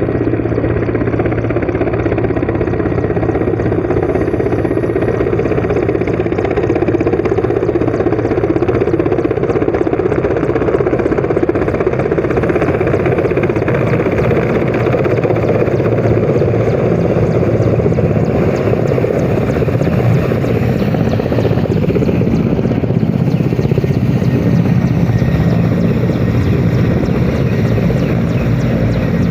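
Helicopter coming in to land, its rotor and engine running loud and steady.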